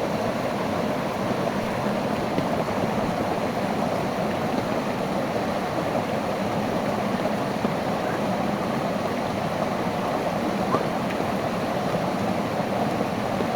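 Stream water rushing, a steady, even flow.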